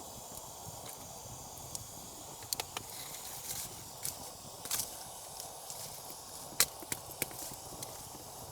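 A steady hiss of forest background with a few sharp clicks and knocks scattered through the middle, the loudest about six and a half seconds in.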